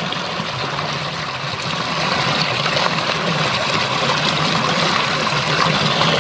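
Steady rush of flowing water, like a stream running over rocks.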